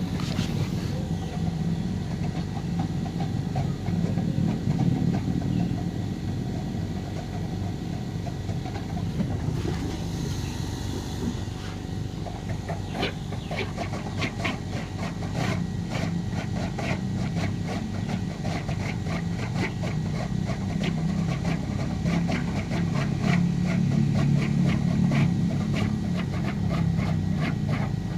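Foam generator machine for foam concrete running: a steady low motor drone with a brief hiss about ten seconds in, then a rapid ticking clatter through the second half.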